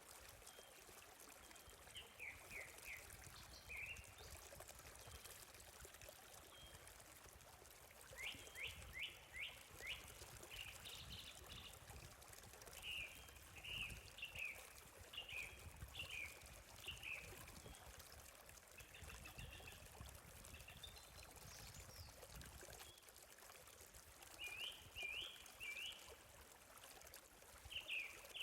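Faint running water trickling steadily, with small birds chirping several times in short runs of quick notes, each note falling in pitch.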